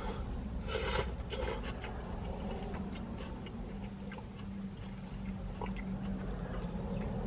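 A person chewing a mouthful of pad thai noodles, with small wet mouth clicks and a short rustle of the food container about a second in, over a low steady hum.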